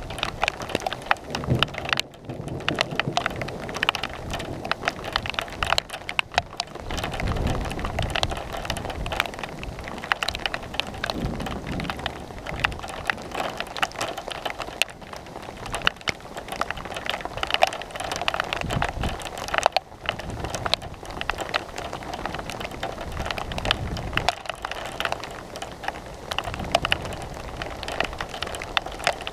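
Thunderstorm rain falling steadily, with many drops striking close by as sharp ticks. Low rumbles of thunder come several times.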